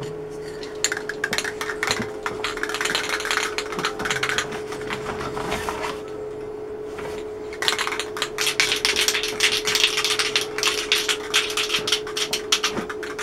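Rapid, scratchy hand scraping on a small metal part, in two long spells with a short pause between, over a steady electrical hum.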